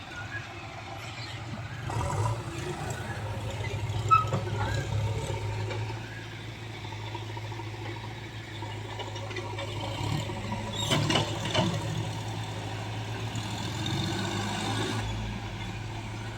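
Diesel engine of heavy farm or construction machinery running steadily with a low hum, with a few short clanks.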